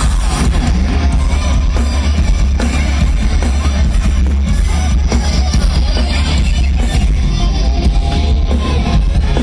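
Loud, dense rock music with drums and electric guitar, in a heavy metal style.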